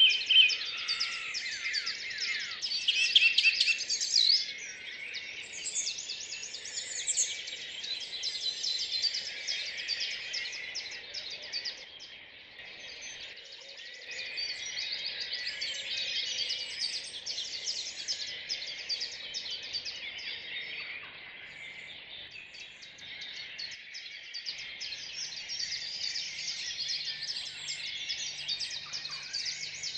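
Dawn chorus of many songbirds singing at once in a park: dense, overlapping chirps, trills and whistles, with the loudest phrases near the start.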